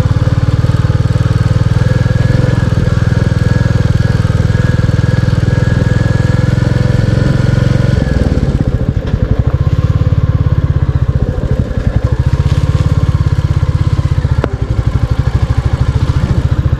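Royal Enfield Classic 350's single-cylinder engine running steadily while the motorcycle rides along. About eight seconds in, the engine note drops and its separate beats become more distinct.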